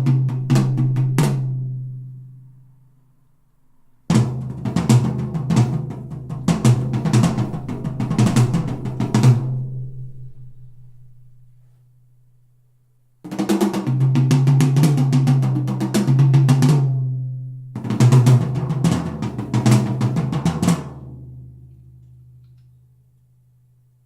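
Drum-kit music with snare hits, drum rolls and a deep bass tone, played back through Canton Plus S two-way mini speakers (110 mm bass driver, 25 mm dome tweeter). It comes in short passages that start abruptly, about a second, four and thirteen seconds in, and each dies away into near silence.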